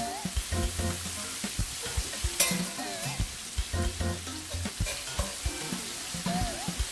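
Shredded chicken and capsicum sizzling in a frying pan as they are stirred, with scattered knocks of the utensil against the pan. Background music plays over it.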